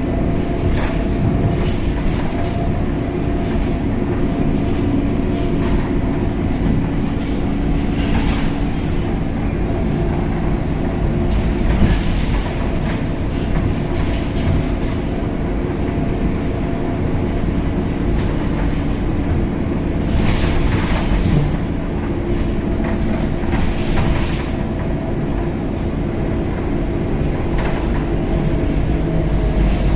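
Cabin sound of a Scania K270UB city bus on the move: the steady drone of its diesel engine and road rumble, with occasional rattles and knocks from the bodywork and fittings.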